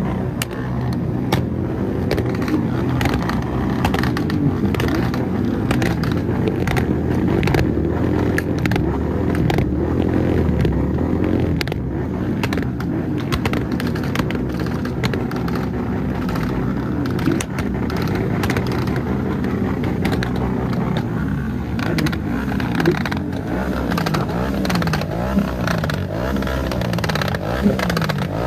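Kawasaki ZX-10R's inline-four engine running under way, its pitch rising and falling with the throttle and most changeable near the end, with frequent short crackles over it.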